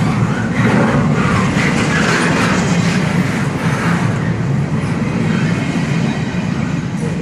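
Long freight train rolling past: a steady loud rumble of railcar wheels on the rails.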